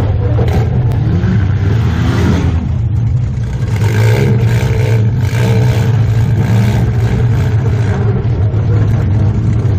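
Compact demolition derby car's engine running and revving up and down under throttle, heard inside the stripped-out cabin. The revs dip briefly about three seconds in, then pick back up.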